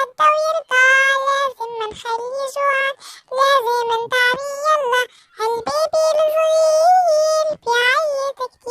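A child singing a children's song in a high voice, in short phrases separated by brief pauses.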